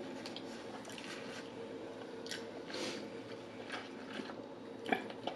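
Close-miked chewing and wet mouth sounds of a person eating, with light clicks and scrapes of a fork in a plastic takeout tray; the sharpest click comes near the end.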